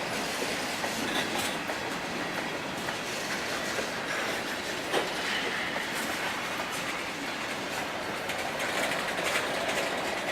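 Long freight train's cars rolling past on the rails, a steady running rattle of wheels on track, with one sharp clank about five seconds in.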